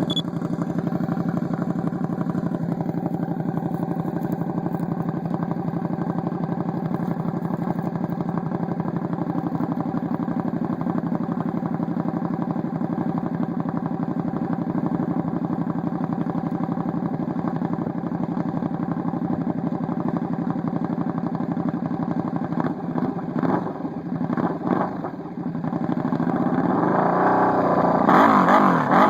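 2012 KTM RC8R's V-twin engine running through a Competition Werkes slip-on exhaust: idling steadily, then blipped a few times and revved up, rising in pitch and loudness near the end before dropping back.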